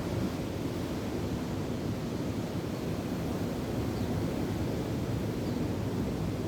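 Wind gusting over the microphone on top of waves washing ashore: a steady rushing noise, heaviest in the low end. Two faint bird chirps come in the second half.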